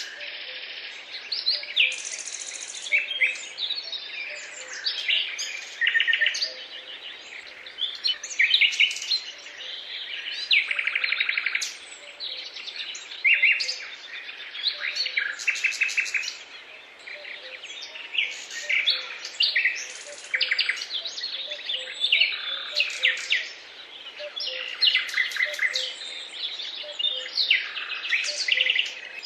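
Songbirds singing: a dense, unbroken chorus of varied chirps and quick trills, several phrases overlapping.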